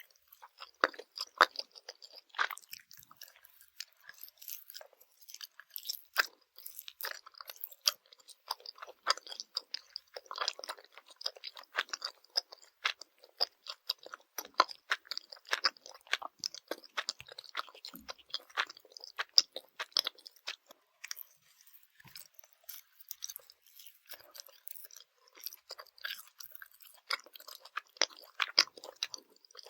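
Swedish gummy candy being chewed close to an ASMR microphone: a dense run of small wet clicks and crackles, thinning out for a few seconds past the middle.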